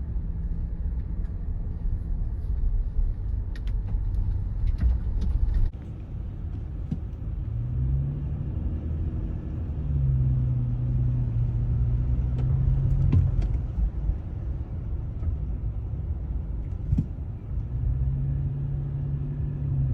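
A car driving: low steady road rumble with an engine hum that rises in pitch and settles several times as it speeds up, with a few faint clicks.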